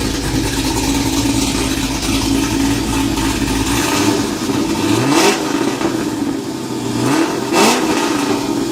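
Cammed L99 6.2-litre V8 of a 2010 Camaro, with an aftermarket cam, LS3 heads, long-tube headers and a Corsa exhaust, running with a low exhaust note. About five seconds in it is revved, and again about two seconds later, its pitch rising each time.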